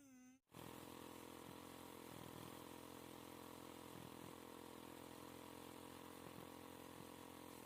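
A faint engine running steadily at an even speed, cutting in abruptly after a brief gap about half a second in.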